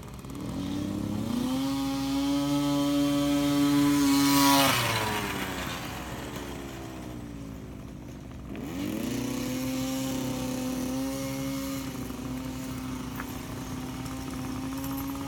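Dirt bike engine rising in pitch and holding a steady high note, loudest about four and a half seconds in as its pitch drops away. It then revs up again about nine seconds in and runs steady.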